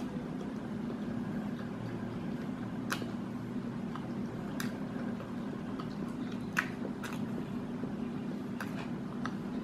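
A person chewing a mouthful of fried chicken burger, with a few short, sharp mouth clicks spread through the chewing, over a steady low hum.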